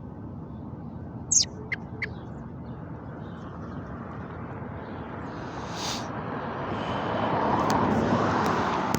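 Steady outdoor traffic noise, with a vehicle passing that builds up in the second half and is loudest near the end. About a second and a half in come three short, high, sharp chirps or squeaks, the first the loudest.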